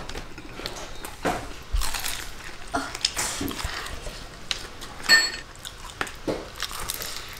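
Fried chicken being bitten and chewed close to the microphone: irregular crisp crunches, crackles and mouth smacks. A short ringing clink about five seconds in.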